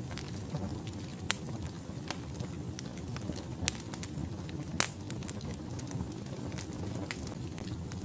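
Wood fire burning in a fireplace: a steady low rushing hiss with scattered sharp crackles and pops, the loudest pops about 1.3, 3.7 and 5 seconds in.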